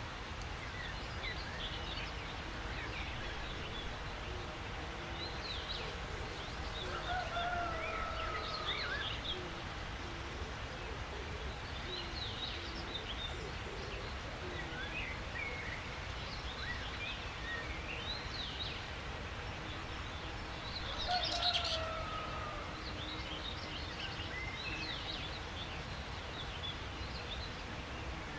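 Several birds chirping and calling with many short, high chirps over a steady low background noise. A longer descending whistled phrase comes twice, about a third of the way in and again near the end of the second third.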